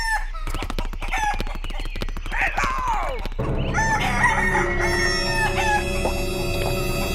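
Chickens clucking and a rooster crowing, the crow falling in pitch near the middle, over a run of clicks. Music with long held notes comes in about halfway, with more clucks over it.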